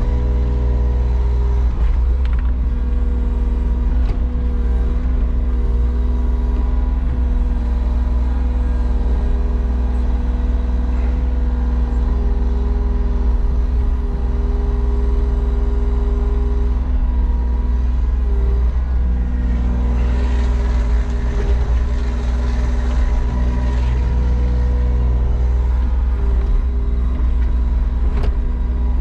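Excavator engine running steadily while it digs sand, with humming tones above the engine that break off and return every few seconds.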